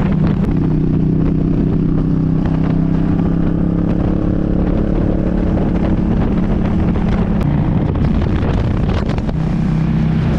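An engine running steadily at a constant speed close to the microphone, its pitch dipping briefly about seven or eight seconds in, with some wind noise on the microphone.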